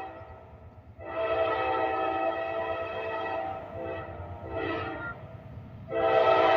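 Locomotive air horn blowing a long blast, a short blast, then another long blast, the grade-crossing signal, over the low rumble of the approaching train.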